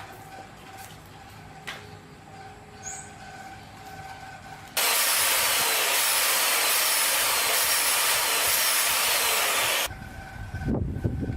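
A pressurised spray hissing loudly and steadily for about five seconds, starting and stopping suddenly, after a few faint clicks. Uneven low knocking and rumbling follows near the end.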